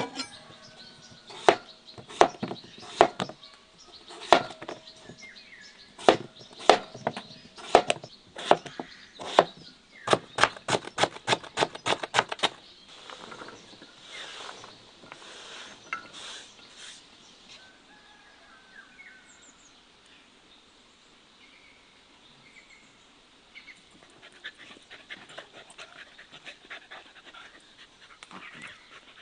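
A series of sharp knocks: spaced out at first, then a quick run of about four a second for a couple of seconds, before fading to faint scattered clicks.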